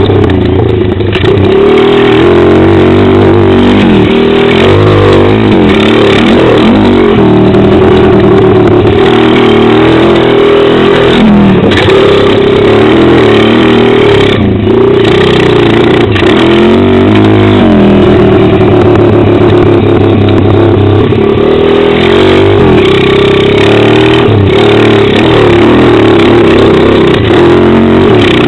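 Pit bike engine ridden hard, its pitch rising and falling again and again as the throttle opens and closes and it shifts through the gears. Loud throughout.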